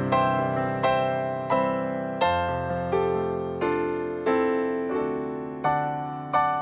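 Piano playing slow chords, a new one struck about every 0.7 seconds and left to ring and fade before the next.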